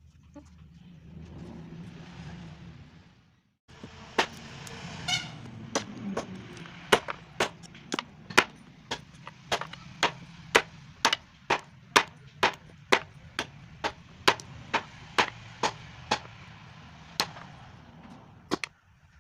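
A homemade camping axe chopping wood: a steady run of sharp blows, about two a second, with a short pause near the end.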